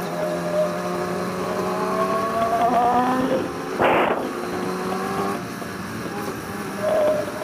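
Motorcycle engine under way, rising in pitch for a couple of seconds as it revs up. A short, loud, rushing burst about four seconds in breaks the run, and the engine then settles back to a steadier, lower note.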